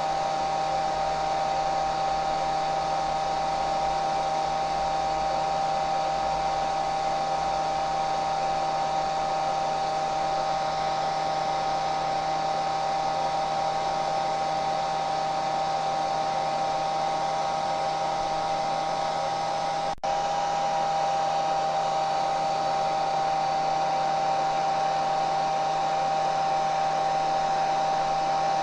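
Hair dryer running steadily: a continuous rush of airflow with a steady motor whine. It cuts out for a split second about two-thirds of the way through, then carries on unchanged.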